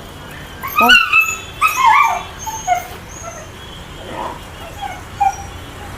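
Puppy crying: a cluster of loud, high whimpering yelps that fall in pitch, about a second in, then fainter, scattered whines.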